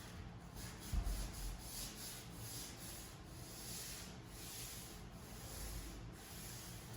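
Hand sanding of a wooden cabinet surface with sandpaper: rhythmic back-and-forth scratching strokes, about two or three a second, during a light smoothing pass before finishing. A soft low bump about a second in.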